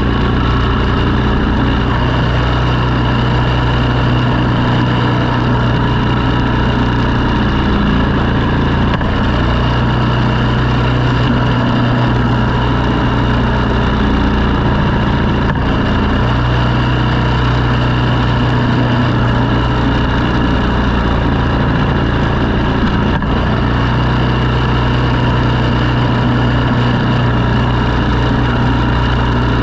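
An engine running steadily at constant speed while clearing snow, a continuous low hum with no pauses; its lowest tone briefly weakens a few times, around the middle and later on.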